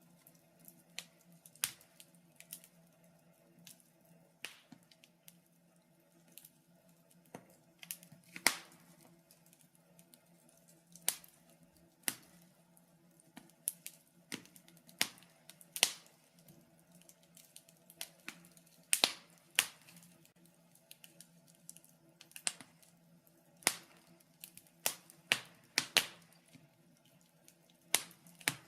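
Wood fire crackling in a fireplace: irregular sharp pops and snaps, some much louder than others, with a cluster of loud pops past the middle. A faint steady low hum runs underneath.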